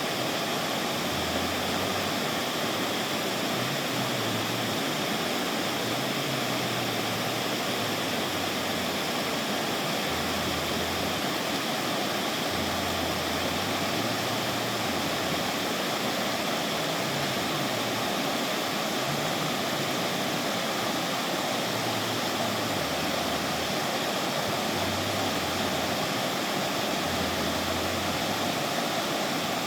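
River water rushing over rocks in a continuous, steady rush.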